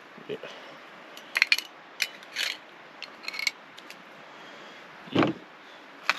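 Sharp clicks and rattles of cooking gear being handled, in several short clusters, then one dull thump about five seconds in.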